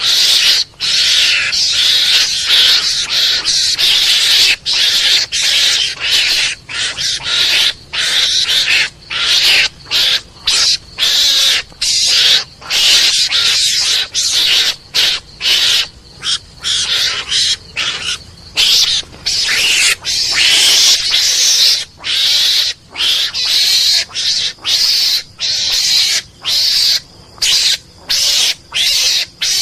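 Mongoose (garangan) calls played back as a hunting lure: harsh, hissing chatter in quick repeated bursts broken by short gaps.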